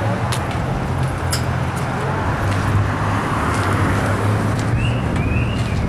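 A car engine idling steadily amid street noise, with a couple of short, high chirps near the end.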